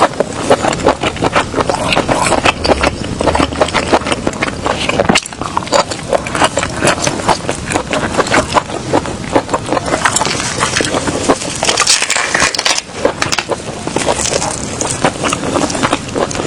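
Close-miked crunching and chewing of seafood: a dense run of irregular cracks and crackles.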